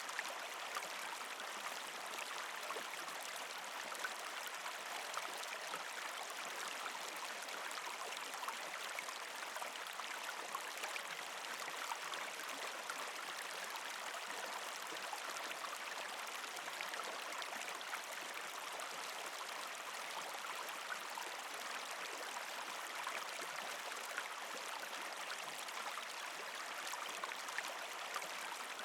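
Partially frozen creek flowing over rocks: a steady trickling and gurgling of water with many small drips and splashes.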